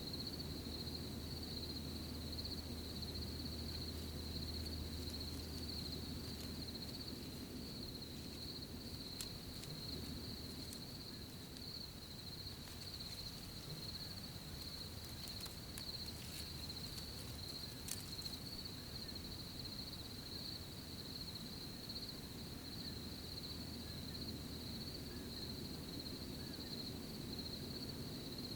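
Crickets chirping in a steady, continuous high-pitched chorus over a low rumble, with a few faint ticks or rustles in the middle.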